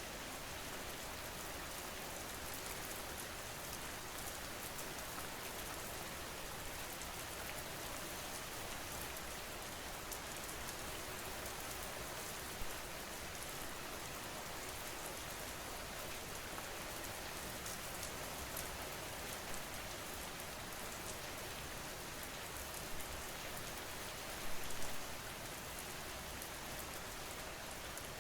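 Steady rain falling, an even dense patter of drops, with a sharper tap about halfway through and a brief louder cluster of hits near the end.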